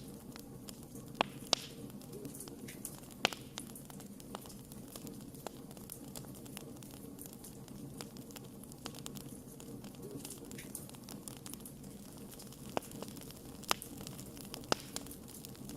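Wood fire burning with a steady low hiss and scattered sharp crackles and pops of burning wood.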